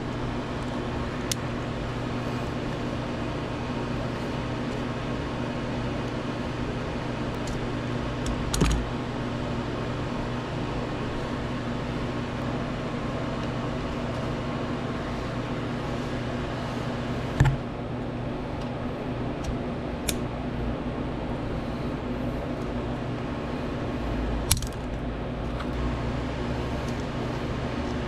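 Steady mechanical hum of a fan or air-conditioner type, with five sharp clicks and knocks spread through it from tools and the cord being handled during the wire repair.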